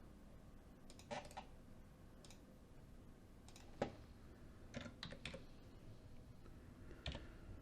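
Faint, scattered taps and clicks on a computer keyboard and mouse, in small irregular groups with a single sharper click near the middle.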